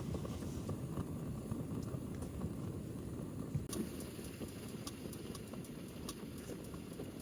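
KOVEA Cubic portable gas heater burning, a low, uneven rushing sound with scattered faint ticks.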